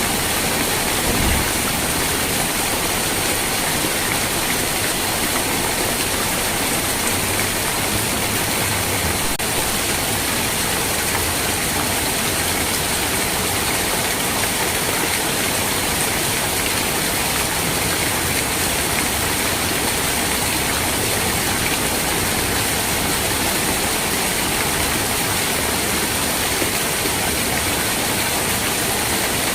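Steady, heavy rainfall, an even hiss with no breaks, with one brief low thump about a second in.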